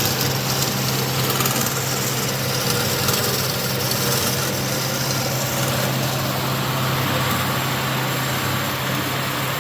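Cosen C-4038NC horizontal dual-column bandsaw running steadily after repair: a steady, even hum with a hiss over it, from a quiet, clean-running machine.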